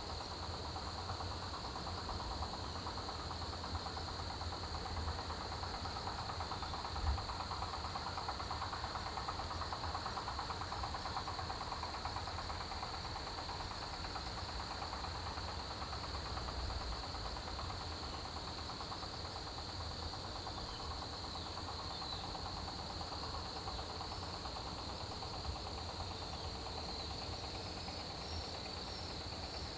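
Chorus of autumn crickets and other grass insects, chirping steadily and shrilly in rapid pulses, over a low rumble, with one brief low thump about seven seconds in.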